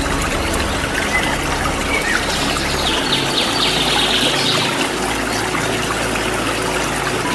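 Waterfall water rushing steadily, with a bird's rapid trilling call from about three to five seconds in.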